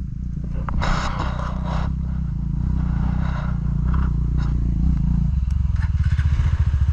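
Single-cylinder motorcycle engine running at low speed on a rough trail, with tyres crunching over gravel and stones clattering. A little after five seconds in, the engine note turns into a distinct, even pulsing beat, as at low revs.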